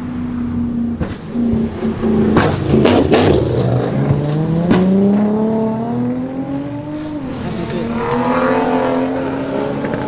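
Performance car engine revving on a pull-out, with a burst of loud exhaust pops and bangs about two and a half to three seconds in, the pops of a car shooting flames from its exhaust. It then accelerates away, its engine note rising steadily for a few seconds.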